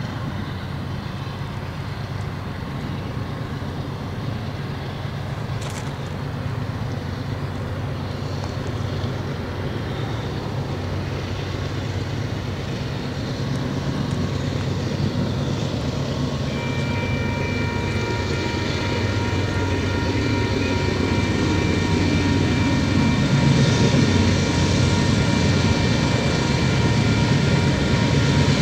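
Union Pacific diesel freight locomotives approaching, their engines working hard with a low rumble that grows steadily louder. A little over halfway through, the lead locomotive's multi-chime air horn comes in and is held as one long steady chord.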